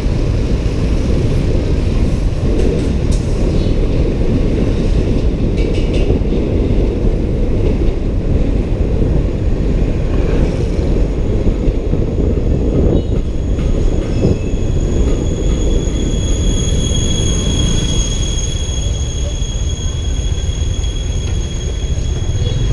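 Steady loud rumble of riding a motorbike: wind buffeting the microphone along with engine and road noise. A thin, steady high whine joins for several seconds past the middle.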